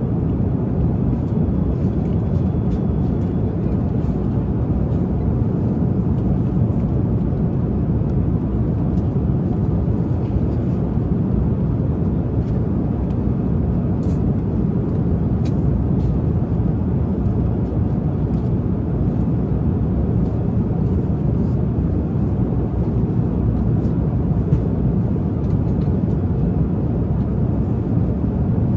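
Steady low drone of a jet airliner cabin in flight, with a few faint clicks.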